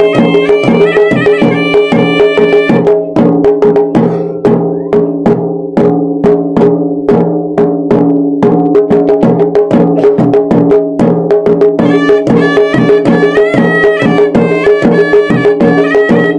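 Sri Lankan hewisi ritual music: a reedy shawm (horanewa) playing a melody over fast, dense drumming. About three seconds in the shawm drops out and the drums play on alone for roughly nine seconds, then the shawm comes back.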